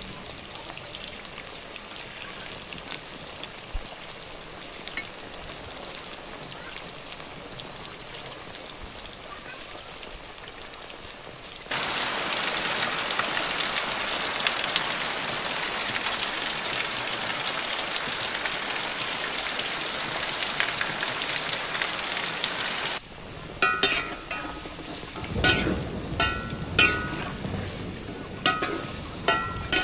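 Cassava chunks frying in oil in an iron wok, a steady sizzle. About twelve seconds in it cuts to heavy rain pouring off a roof edge, a louder steady hiss lasting about eleven seconds. Then the frying returns, with a metal spatula clanking and scraping against the wok several times near the end.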